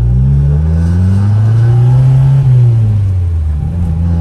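Honda Integra GSR's B-series four-cylinder engine heard from inside the car while driving: the engine note climbs for about two and a half seconds, then falls away and picks up again near the end.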